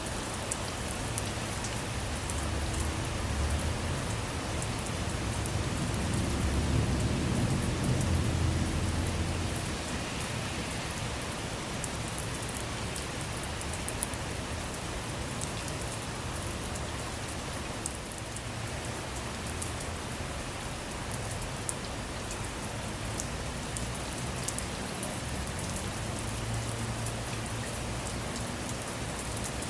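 Steady rain falling on a car, with many fine sharp drop ticks. A low thunder rumble swells a couple of seconds in, is loudest around the middle of the first third, and fades out by about ten seconds; a fainter rumble comes again near the end.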